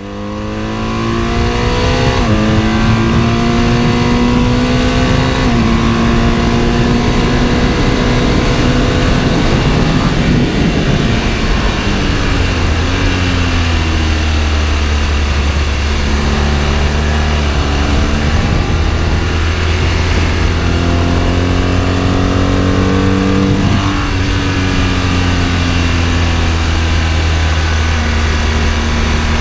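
Sport motorcycle engine pulling hard on track, its pitch climbing and dropping at upshifts about two and five seconds in, then running steadily with further rises and falls in revs. Wind rushes over the microphone, strongest around the middle.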